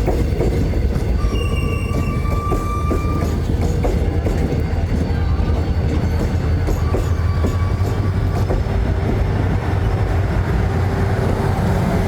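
A train running past on the rails: a steady low rumble with wheel clatter and clicks, and a high steady squeal heard twice, about a second in and again around seven seconds.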